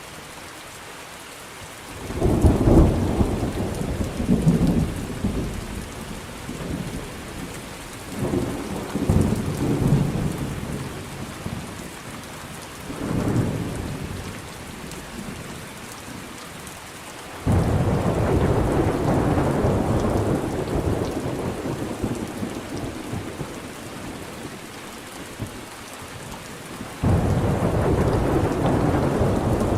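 Thunderstorm: steady rain with rolling thunder several times over. Rumbles come about 2, 8 and 13 seconds in, and louder, longer peals start suddenly past the middle and again near the end.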